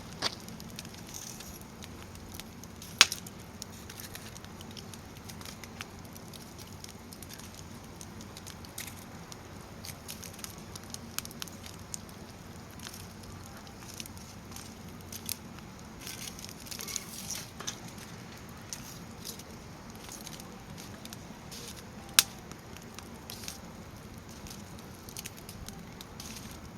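Firewood burning in a fire pit: a steady low rush of flames with scattered crackles. Two sharp, loud pops stand out, about three seconds in and again about two-thirds of the way through, with a flurry of crackling just past the middle.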